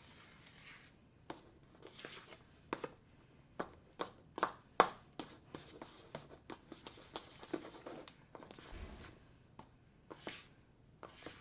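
A spoon stirring glue into shaving cream in a bowl: irregular clicks and short scrapes of the spoon against the bowl, the loudest about five seconds in.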